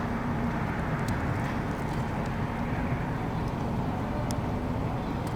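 Steady low rumble of vehicle engines and road traffic, with a faint engine hum and no distinct events.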